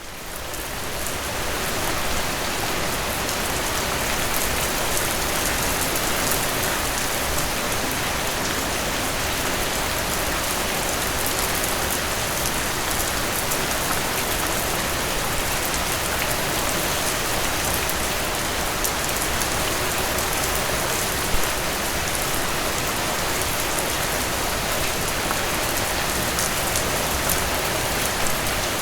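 Steady rain falling on a surface, a dense even hiss with fine drop patter, fading in over the first couple of seconds.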